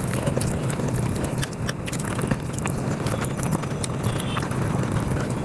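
Eating sounds played back at high speed: dense, rapid, irregular mouth clicks and chewing as a person eats rice and curry.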